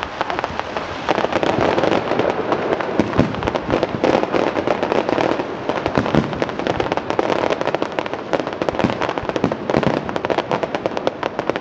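Fireworks display bursting overhead: a dense, unbroken run of bangs and crackling pops with no gaps.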